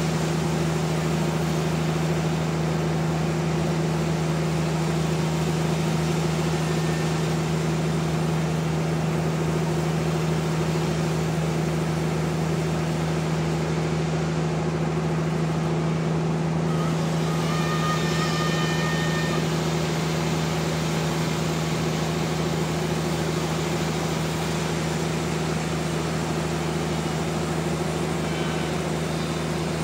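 Sawmill running with a steady, unchanging engine drone, with a few faint high tones briefly a little past the middle.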